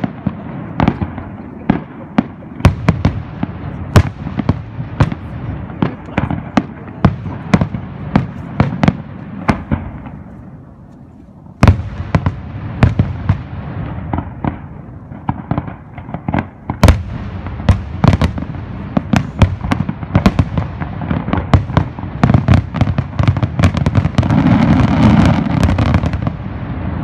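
Fireworks display: a rapid, irregular series of sharp bangs from aerial shells. The bangs thin out about ten seconds in, pick up again with a loud bang, and near the end run together into a dense, steady rumble.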